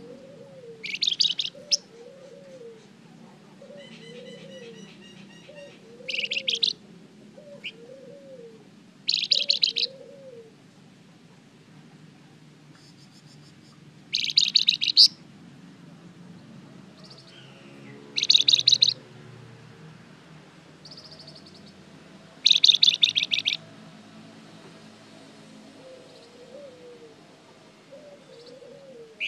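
A caged flamboyan songbird singing loud, rapid trilled phrases of about a second each, roughly every four seconds, with softer chirps between. A faint low soft note repeats about once a second under the first third of the song and again near the end.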